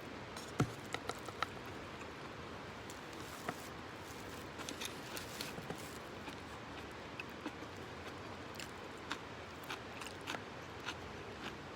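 Small wood campfire crackling: irregular sharp snaps and pops, a few close together about half a second to a second and a half in, over a low steady hiss.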